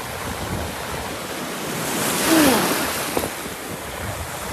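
Sea waves breaking on the shore in a gale, with wind buffeting the microphone; one wave crashes about halfway through, the loudest moment.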